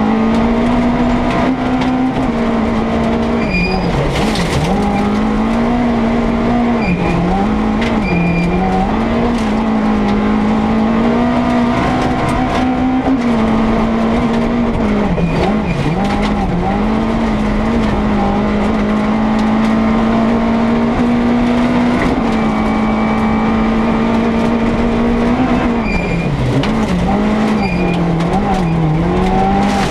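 Opel rally car's engine heard from inside the cabin, running hard at steady high revs, its pitch dipping briefly and climbing back several times, around four, eight, sixteen and twenty-seven seconds in.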